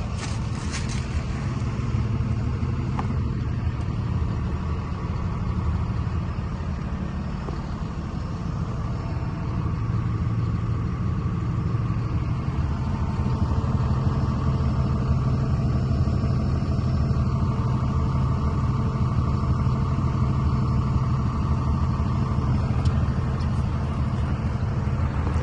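2020 DAF 18-tonne refrigerated truck running steadily, a low diesel hum that gets a little louder about halfway through.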